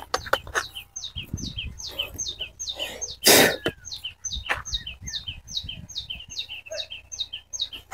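A bird calling over and over: a short, high chirp that falls in pitch, repeated a few times a second. A loud, brief noise cuts across it about three seconds in.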